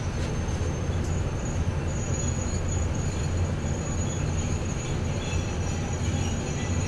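Steady low rumble of trains rolling, heard from inside a passenger carriage running alongside a freight train of open coal wagons, with a thin high wheel squeal over it.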